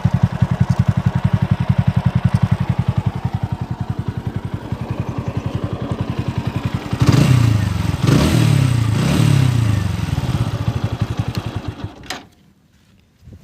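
TVS Apache RTR 200 4V's single-cylinder engine idling with an even beat, then revved up and back down three or four times, then switched off about twelve seconds in.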